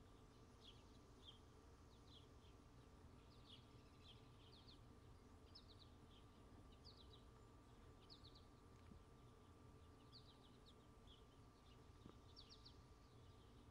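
Faint, short, high bird chirps, often two to four in quick succession, repeating every second or so over a low steady background hum.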